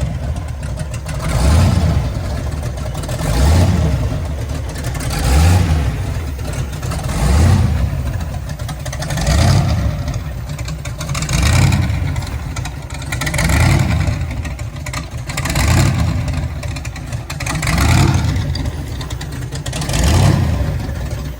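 Supercharged Hemi V8 in a 1955 Chevy pickup being revved over and over, the revs climbing and dropping back about every two seconds.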